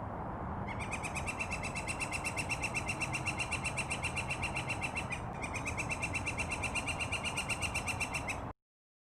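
Woodpecker calling: a fast, even run of short high chirps that pauses briefly about five seconds in and cuts off abruptly near the end.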